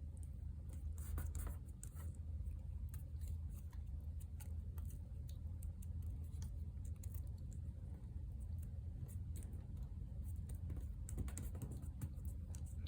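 Faint, irregular little clicks and taps of paper pieces being handled and laid down on a desk, over a steady low hum.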